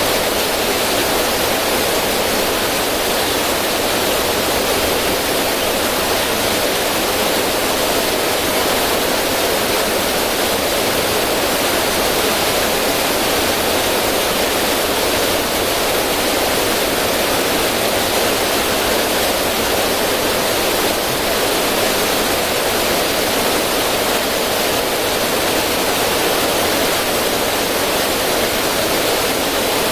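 River water rushing and splashing over rocks in a small cascade, a steady, even noise with no pauses.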